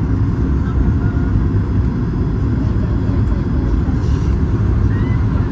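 Steady, loud low rumble of a Boeing 737 MAX 8-200 and its CFM LEAP-1B engines heard from inside the passenger cabin.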